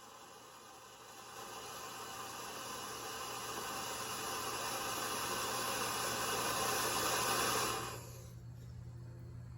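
Homemade solid-propellant rocket motor in a PVC casing, fitted with a 3D-printed de Laval nozzle, firing in a static test. Its hiss starts about a second in, grows steadily louder, and cuts off sharply near the end when the propellant burns out.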